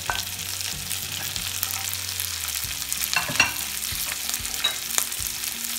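Chopped onions and green chillies sizzling in hot oil in a non-stick kadai as they are stirred with a wooden spatula, with a few sharp clinks: one at the start, two about three seconds in, one near the end.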